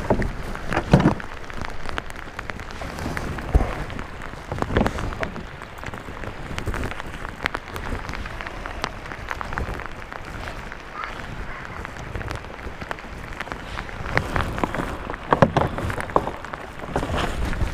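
Heavy downpour of rain on the lake: a steady hiss full of small drop taps close by, with a few louder knocks and rustles scattered through.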